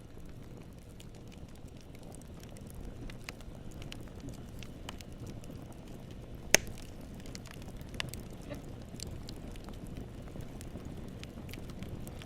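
Campfire burning with a steady low rumble and scattered crackles, and one sharp pop about six and a half seconds in.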